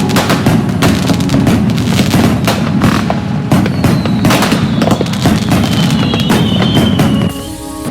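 Dense, rapid crackling and banging of firecrackers and fireworks. From about halfway, a whistling firework's tone glides slowly down in pitch. The crackle thins briefly near the end.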